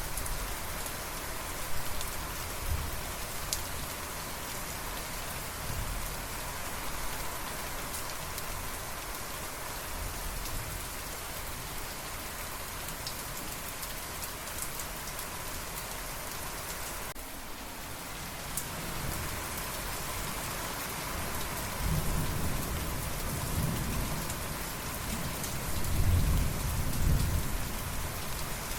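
Steady rain falling, with thunder rumbling low in the background during the second half, loudest near the end.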